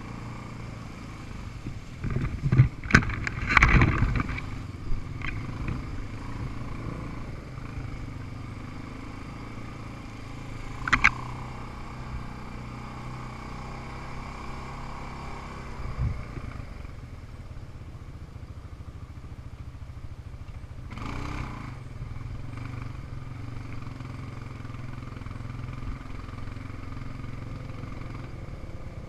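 Small off-road vehicle engine running steadily. Loud clattering knocks come a couple of seconds in, another sharp knock about eleven seconds in, and a shorter rattle about twenty-one seconds in.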